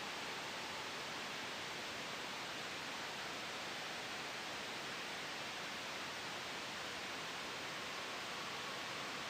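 Steady, even hiss of soft white noise blended with a gentle wind, without change.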